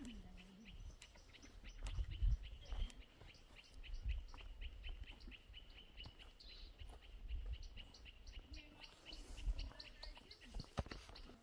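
A small bird chirping in a rapid, steady series of short high notes, about four or five a second, over intermittent low rumbling.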